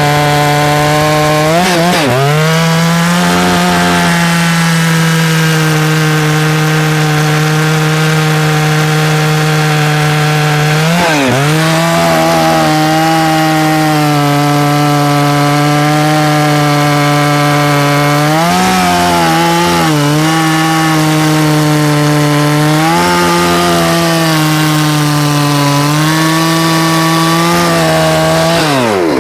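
Stihl 066 Magnum 91.6cc two-stroke chainsaw cutting through a large log under load, its engine note held high and steady in the cut. The pitch drops sharply and recovers about two, eleven and nineteen seconds in, as the chain bogs in the wood. The engine note falls away at the very end.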